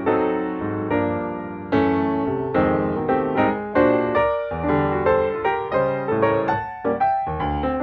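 Background piano music: notes struck one after another and dying away.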